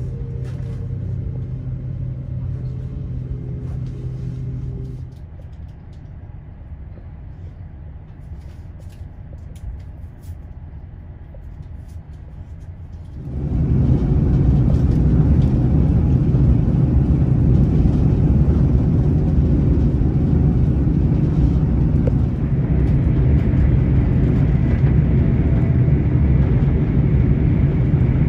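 Train noise inside a Great Western Railway Intercity Express Train carriage running along the line: first a steady hum with a few held tones, then from about halfway a much louder, steady rumble of the train at speed.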